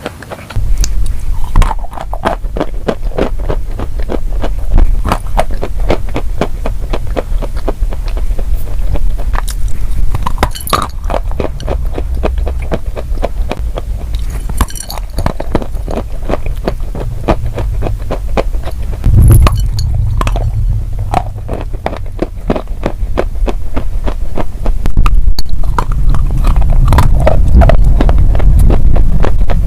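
Close-miked chewing of crunchy food: dense, rapid crackling crunches over a heavy low rumble.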